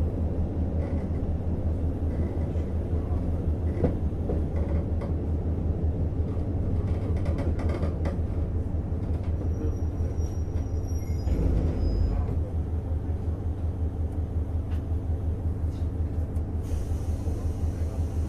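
Diesel engine of a JR Hokkaido KiHa 150 railcar running with a steady, evenly pulsing low throb. There is a short surge about eleven seconds in and a brief hiss of air near the end.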